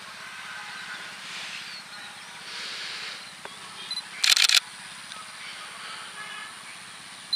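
Sony A7R III camera beeping briefly as focus locks, then firing a quick burst of shutter clicks about four seconds in, over a faint steady outdoor background.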